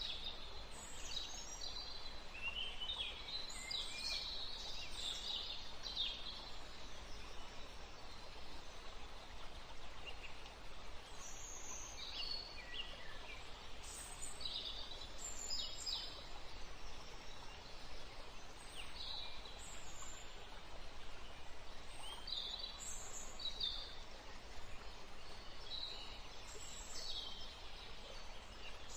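Songbirds chirping and calling over a steady background hiss, busy for the first few seconds, then single calls every second or two.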